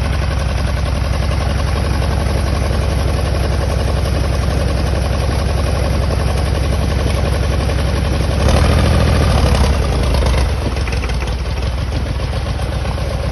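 Farm tractor engine running steadily under load, then working harder and louder for about two seconds before easing back.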